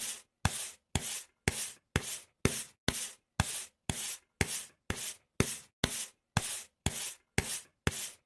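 Rhythmic rubbing or scraping strokes, about two a second and very evenly spaced, each opening with a small click.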